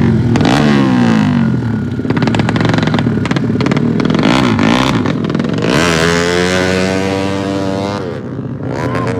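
Motocross bikes racing, engines revving hard: pitch drops early on as revs fall, then climbs again about six seconds in as a bike accelerates.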